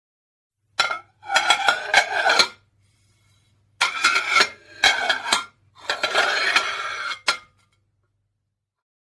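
Dishes clinking and clattering in several bursts, with a faint steady low hum underneath.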